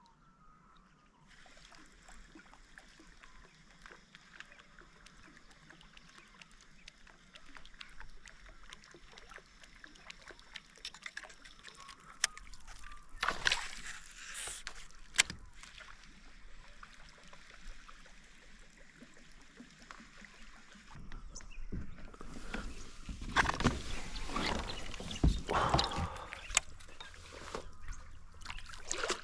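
Water sloshing and lapping against a kayak hull, with scattered light knocks and clicks; it grows louder and busier about two-thirds of the way in.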